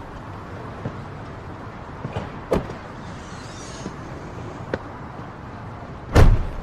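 Steady low background noise with a few light clicks, then a heavy thump near the end that sounds like a car door shutting.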